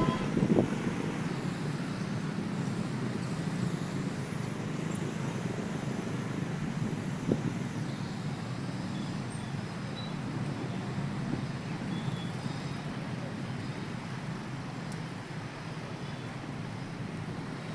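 Steady road traffic noise, vehicle engines and tyres running at a constant level with a few faint knocks.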